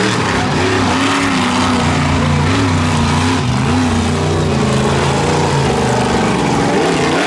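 Monster truck engine running loud and revving, its pitch rising and falling repeatedly as the driver works the throttle.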